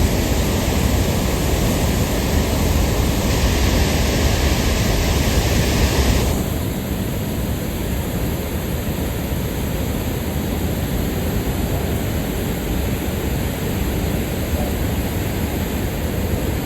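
Waterfall swollen by heavy rain, its falling water making a loud, steady roar. About six seconds in the sound becomes a little quieter and duller.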